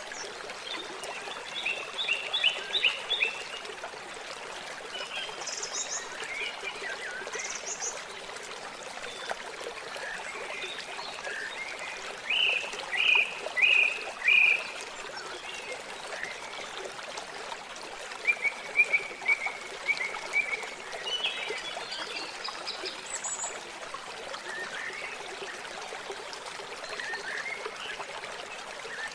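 Water trickling steadily. Over it, small animal calls chirp in quick runs of four or five notes, three runs in all and the loudest sounds, with a few brief higher notes between.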